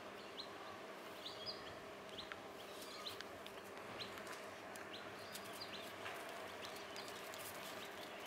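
Small birds giving short, high chirps every second or so, over a faint steady hum, with scattered faint clicks.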